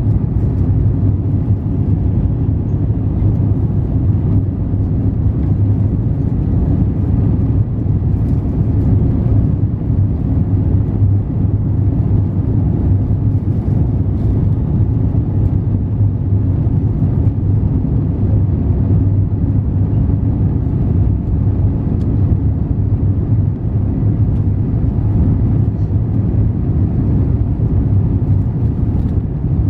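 Steady, even rumble of an Airbus A350-900's Rolls-Royce Trent XWB engines and airflow, heard from inside the passenger cabin, strongest in the low bass.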